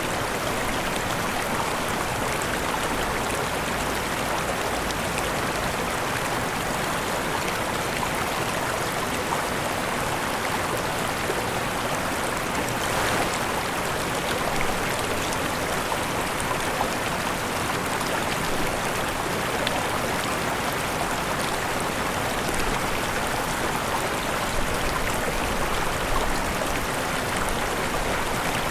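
Falling and rushing water from a waterfall, a steady even splashing rush without a break.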